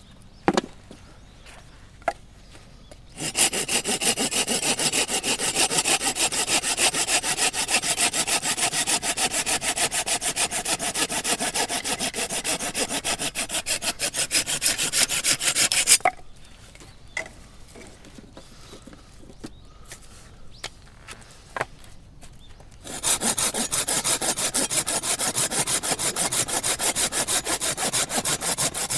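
Hand saw cutting through a firewood log in quick, even back-and-forth strokes. It saws for about thirteen seconds, stops for several seconds with a few knocks of wood, then starts sawing again.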